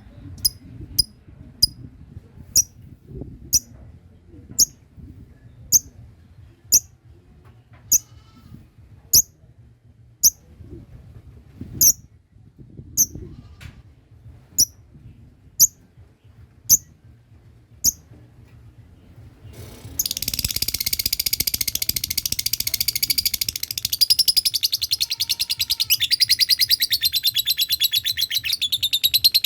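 Lovebirds calling: single sharp, high chirps about once a second. About twenty seconds in, a loud, continuous, rapid chattering trill, the long 'ngekek' call, starts suddenly and keeps going.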